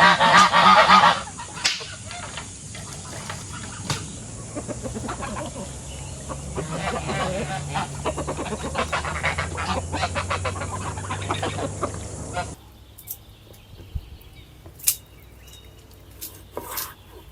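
Domestic geese honking as a flock, loudest in the first second. The calling stops abruptly about twelve and a half seconds in, leaving only a few scattered clicks.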